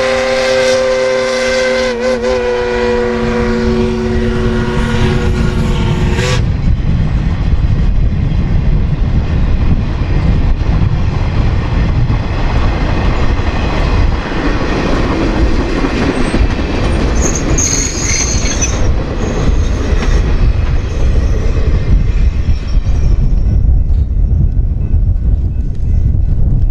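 Norfolk Southern freight train passing: a locomotive horn holds a steady chord for about six seconds, then cuts off sharply. The low, continuous rumble of boxcars rolling by carries on, with a brief high wheel squeal about two-thirds of the way through.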